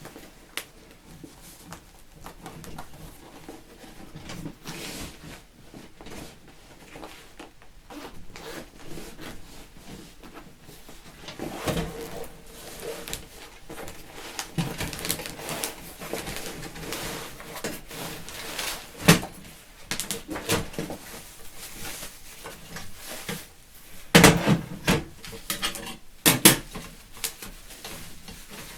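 Parts of a stainless steel campfire stand being handled and fitted together: irregular metal clinks, clacks and knocks, with a sharper knock about two-thirds through and a cluster of louder clanks near the end.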